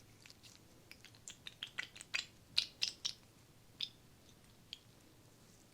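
Fresh aloe vera gel being worked onto an applicator: a run of small crisp clicks and crackles, thickest around two to three seconds in, then two lone clicks.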